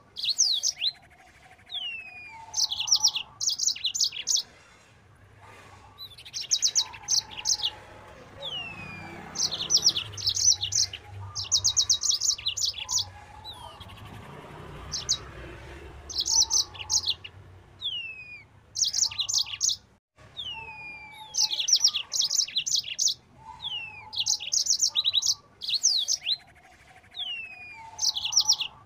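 Mozambique bird (yellow-fronted canary) singing in its rapid 'nembak' style. Each phrase opens with a falling whistle and breaks into a quick burst of high, rapidly repeated notes. The phrases come again every two to three seconds, with fainter lower notes underneath.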